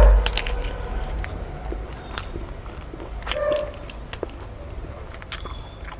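Close-up eating sounds: a mouthful of food being chewed, with wet crackly mouth clicks and smacks scattered throughout. A low thump comes right at the start and is the loudest sound.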